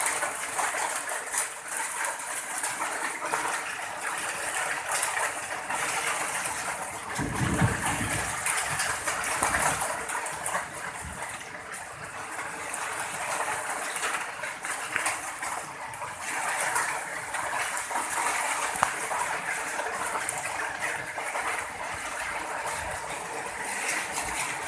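Heavy rain pouring in a windy storm, a steady rushing hiss, with a brief low rumble about seven seconds in.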